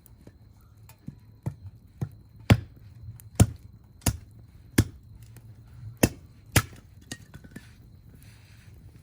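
Firewood being chopped with a hatchet: about ten sharp strikes, roughly one every half-second to second, the loudest in the middle of the run.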